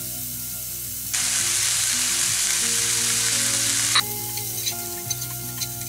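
Bacon, prosciutto, salami and diced peppers sizzling in a frying pan with no added oil, minced garlic just added. The sizzle is louder from about a second in until about four seconds in, then quieter with scattered crackles and pops.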